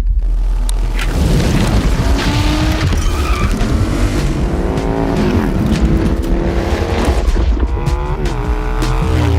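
Harley-Davidson motorcycle engine revving hard under acceleration, its pitch climbing and falling several times as it runs up through the gears.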